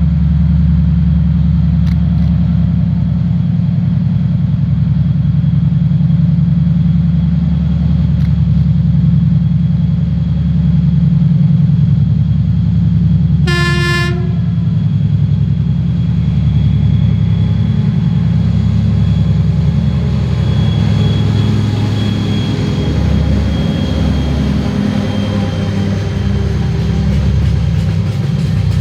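2TE10U diesel locomotive running, its 10D100 two-stroke opposed-piston diesel engines giving a deep steady drone, with one short horn blast about halfway through. After the horn, the rolling noise of the train builds, with a thin high tone over it.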